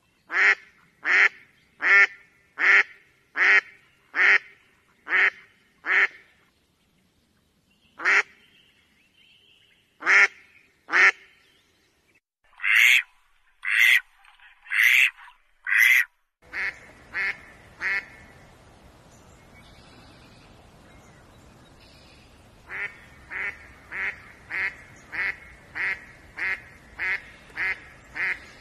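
A duck quacking in runs of evenly spaced quacks, about one and a half a second, broken by short pauses, with a steady run near the end over a faint hiss. It is a call played to lure wild ducks.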